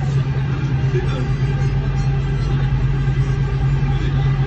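Underground metro train running: a steady rumble with a constant low hum.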